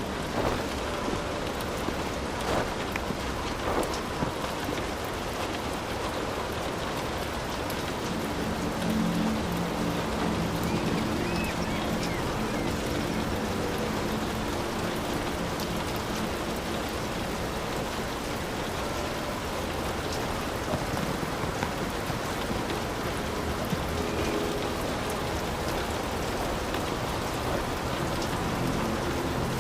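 Heavy rain falling steadily, with individual drops striking close by, and a low rumble of thunder swelling about nine seconds in.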